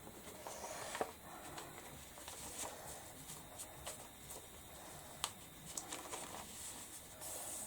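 Faint handling sounds of rice paper being laid onto a glue-coated canvas: soft rustling with a few light taps and a brief soft hiss near the end.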